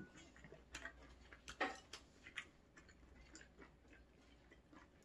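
Faint eating sounds: quiet chewing with small mouth clicks and smacks at irregular intervals.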